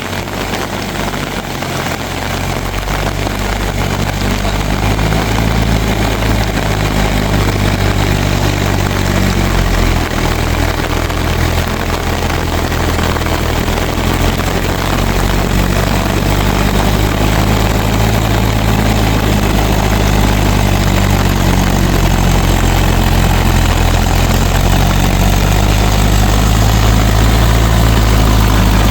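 Mahindra tractor's diesel engine running steadily, growing gradually louder.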